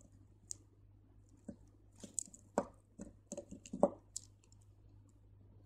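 Faint scattered clicks and light taps of crystal beads knocking together as beading thread is pulled through them, busiest from about two to four seconds in.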